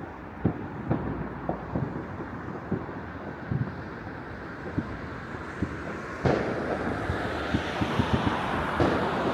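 Distant fireworks going off across a city: many short, irregular low bangs over a steady wind rush on the microphone. About six seconds in, a louder hissing crackle rises and continues.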